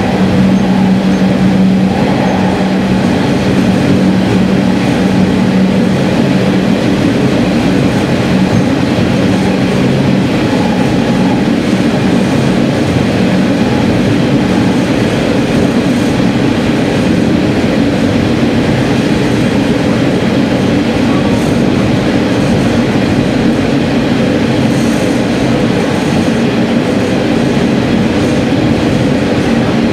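Diesel railcar running at speed through a tunnel, heard from inside the car: steady engine drone and wheel-on-rail noise, with a hum in the engine note that fades out about twelve seconds in.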